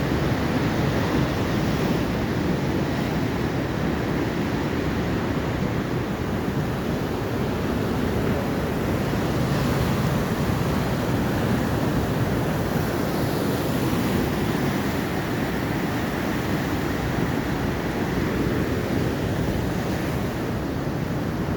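Atlantic Ocean surf: waves washing onto the shore in a steady, continuous rush.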